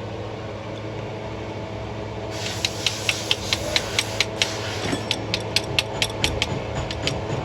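A ratchet wrench clicking in a quick, even run, about four to five clicks a second, starting about two seconds in over a steady low hum.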